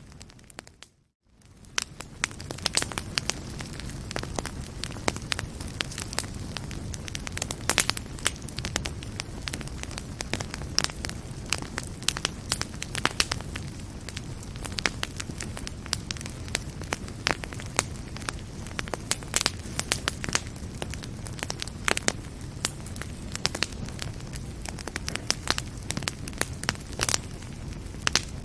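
Wood fire burning in a fireplace: a steady low rumble of flames with frequent sharp crackles and pops. The sound briefly cuts out about a second in, then fades back up.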